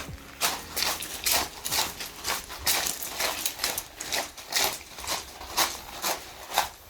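Footsteps at a steady walking pace, about two to three steps a second, each step a short crunch.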